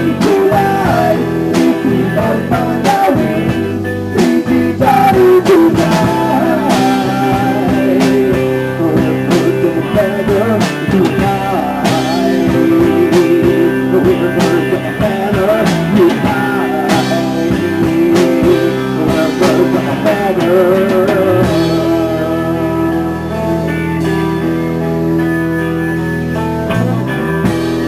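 Rock band playing an instrumental passage of its song: a guitar lead with bending notes over the band, settling into held chords about three-quarters of the way through.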